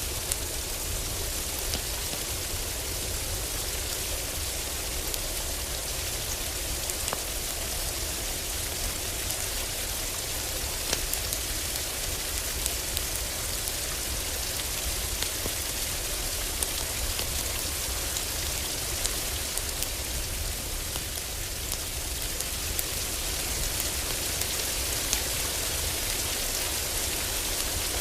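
Heavy rain on a roof, a steady hiss with a low rumble underneath, dotted with scattered sharp crackles and pops from a wood fire in a fireplace.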